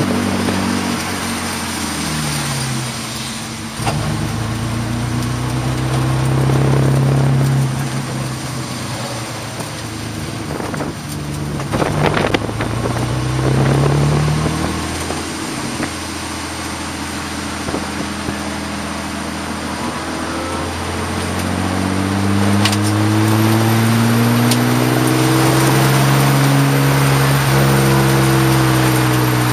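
Race car engine heard from inside its stripped, caged cabin, its pitch repeatedly climbing as it accelerates and dropping as it slows for corners. Near the middle comes a short burst of knocking and rattling as the engine slows. The pitch then climbs steadily through the last several seconds.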